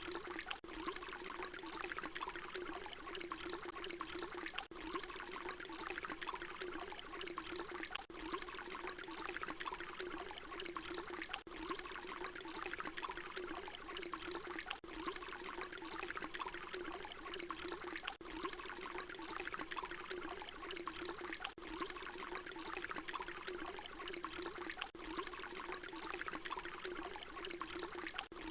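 Water pouring in a steady stream, one short recording looped, with a brief dip in the sound about every three and a half seconds where the loop repeats.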